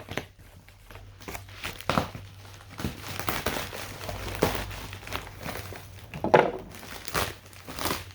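Packaging crinkling and rustling in irregular bursts as a parcel is handled and opened, with one sharper, louder crackle about six seconds in.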